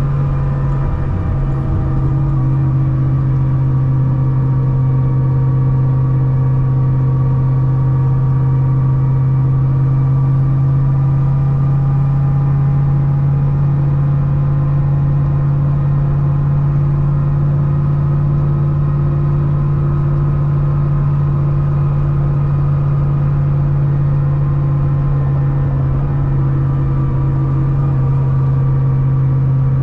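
Supercharged 6.2-litre LS9 V8 of a C6 Corvette ZR1 with a Kong 2650 supercharger, running steadily at highway cruise. It makes a constant low drone with steady higher tones above it, and the engine speed barely changes.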